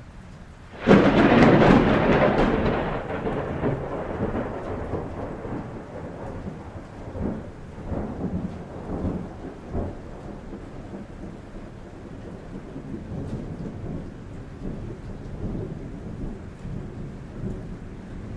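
A close thunderclap cracks about a second in and rolls away over several seconds, with a few more rumbles after it, over steady rain on a roof.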